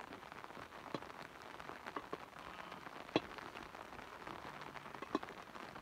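Light rain falling, with scattered raindrops ticking sharply close by, the loudest about three seconds in and again near the end.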